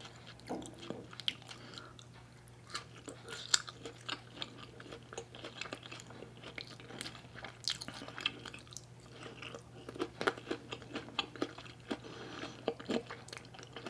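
Close-miked chewing and biting: a person eating steamed fish roe with fresh herbs and vegetables, soft wet chewing broken by irregular small crunches and clicks.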